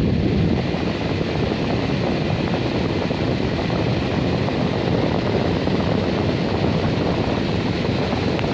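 Box fan running at full speed: a steady, loud rush of air.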